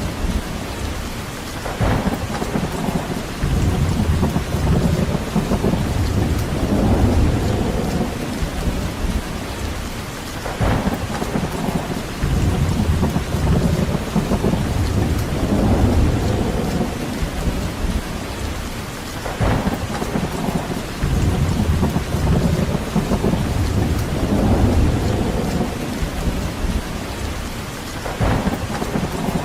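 Steady heavy rain, with a deep low rumbling that swells and fades every few seconds. A brief sharper crack cuts through about every nine seconds.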